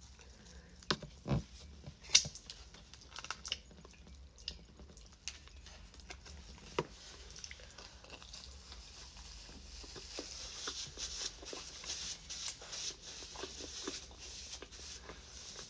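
Close-up chewing and wet mouth sounds of someone eating pizza, with a few sharper clicks a second or two in. The smacking grows denser and a little louder from about halfway through.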